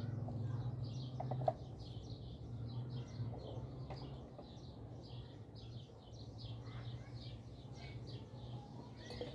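Small birds chirping repeatedly in quick short notes, over a low steady hum.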